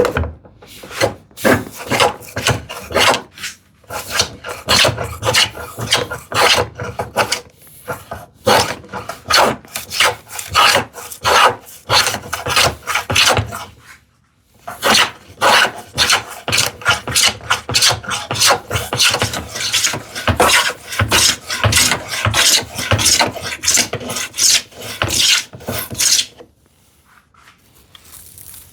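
Combination plow plane cutting a groove along the edge of an ash drawer side, a quick series of short shaving strokes of the blade through the wood. There is a short pause about halfway, and the strokes stop a couple of seconds before the end.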